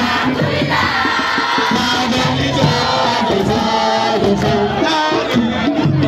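A crowd of many voices singing and chanting together over music, with shouts mixed in; steady and loud throughout.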